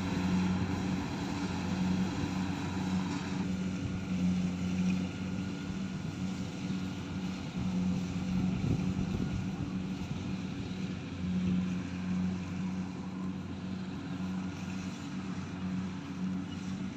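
Kubota combine harvester running steadily with a constant engine drone that holds its pitch. Some of the higher whir eases off about three and a half seconds in.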